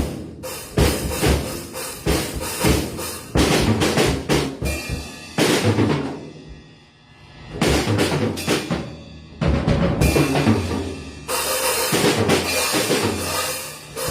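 Drum kit played freely: snare and bass drum hits with ringing washes between the strokes, easing off briefly about seven seconds in before picking up again.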